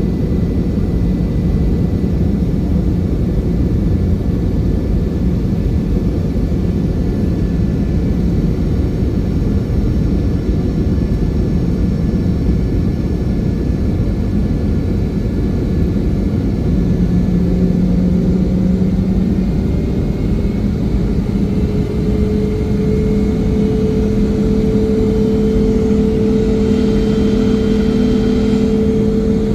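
Cabin noise aboard a Boeing 717-200 with rear-mounted Rolls-Royce BR715 engines: a steady rumble of engines and airflow. Over the second half a hum from the engines climbs slowly in pitch.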